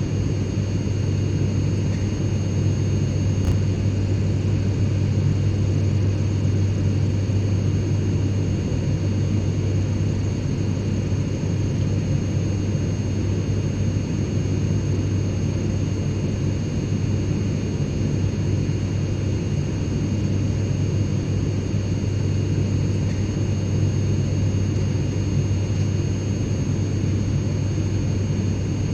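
Airplane cabin interior noise: a steady low rumble with faint, constant high-pitched whines above it.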